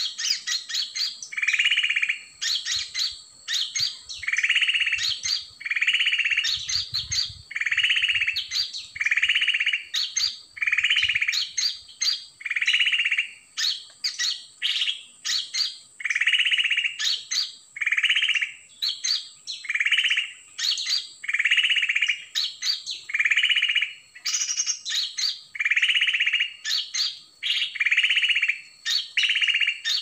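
Bird calls: a short call repeated steadily about every one and a half seconds, with quick sharp chirps in between, over a steady high-pitched tone.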